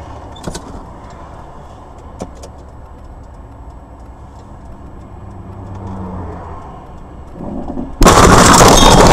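Car running, a steady low engine and road rumble heard inside the cabin, then about eight seconds in a sudden, very loud crash that runs on for over a second: a collision caught on a dashcam.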